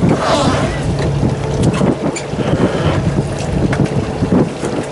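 Fishing boat's engine running steadily, with wind buffeting the microphone and a few short knocks.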